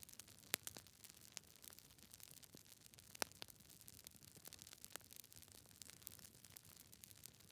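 Wood fire crackling: irregular sharp pops and snaps of burning logs over a soft hiss, with louder pops about half a second in and about three seconds in.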